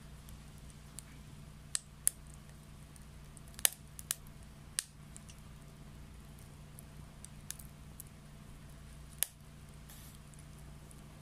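Wet wood crackling as it burns in a homemade secondary-combustion stove: sharp, irregular pops and snaps, the loudest about three and a half seconds in and again near nine seconds, over a faint steady low hum.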